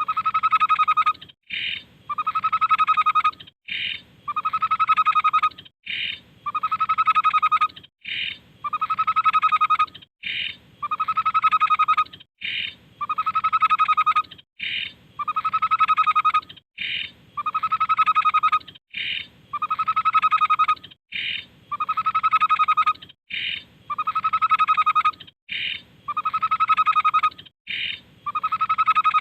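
Tepus babbler singing the same phrase over and over, about every two seconds: a long, full note followed by a short higher note. The repeats are evenly spaced, like a looped song-tutor recording.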